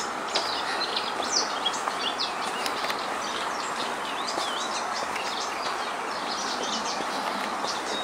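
Small birds chirping and twittering in quick, high calls over a steady background din.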